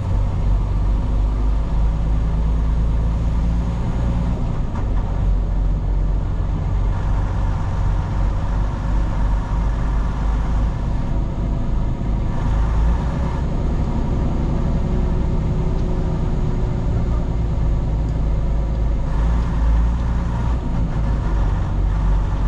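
Semi truck running down the road: a steady engine drone with road noise, unbroken throughout.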